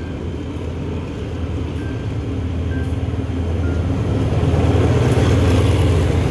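Passenger train running, a steady low rumble that grows louder and is at its loudest about five seconds in.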